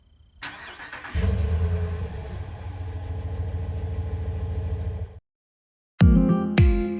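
A car engine starting and running steadily, cut off abruptly about five seconds in. Guitar music starts near the end.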